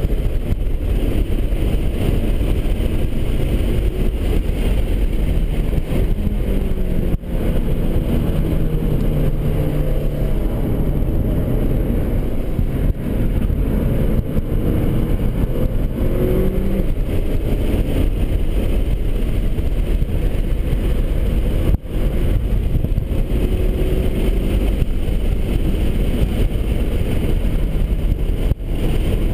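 Cadillac ATS Coupe's 3.6-litre V6 heard from inside the cabin under hard track driving, its pitch rising and falling as the driver works the throttle, over steady road and wind noise. The sound drops sharply and briefly four times.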